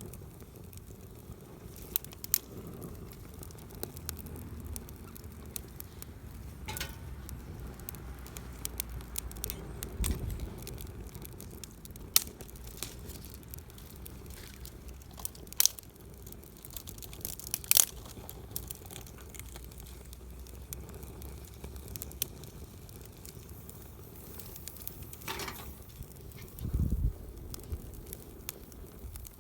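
Wood campfire burning, crackling with scattered sharp pops over a low steady rustle. A low thump comes near the end.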